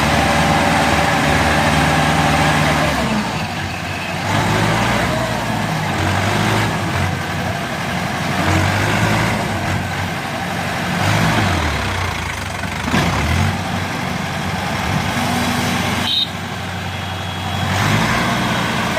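Mahindra 595 Turbo tractor's diesel engine running, its speed rising and falling several times, with a noticeable change in pitch about two-thirds of the way through.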